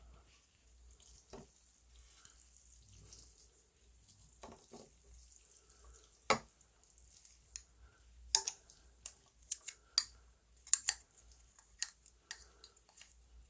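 Close-miked eating of janchi guksu noodle soup: scattered wet clicks and smacks of mouth and chopsticks, one loud click about six seconds in and a quicker run of them in the second half.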